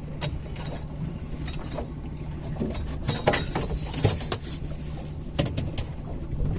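Spinning or baitcasting fishing reel being wound in on a hooked fish, with irregular clicks and rattles of the tackle, over the steady low hum of the boat's idling engine. The clicks come more thickly from about three seconds in.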